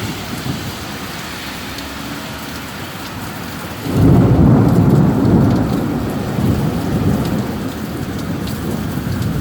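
Heavy rain falling steadily, with a low rumble of thunder breaking in about four seconds in, loudest for a second or two and then slowly dying away.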